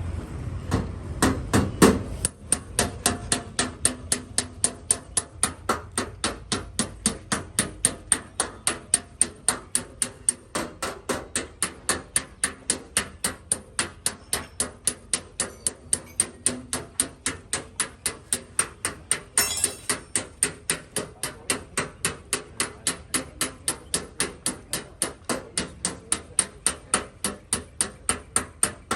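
Paintless dent repair: light hammer taps on a car's sheet-metal body panel, struck steadily about three times a second. A few louder strikes come near the start and one sharper hit comes about two-thirds of the way through.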